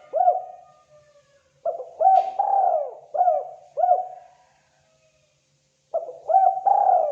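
Spotted dove cooing: phrases of four or five quick, arching coos with pauses between. One phrase ends just after the start, a full phrase runs from about a second and a half in to about four and a half seconds, and another begins about six seconds in.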